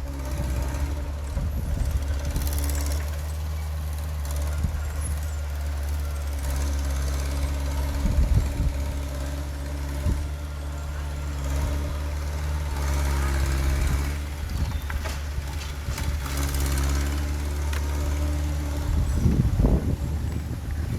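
Heavy earthmoving machine's diesel engine running steadily under load, with occasional metallic clanks and knocks, the clearest about eight seconds in and near the end.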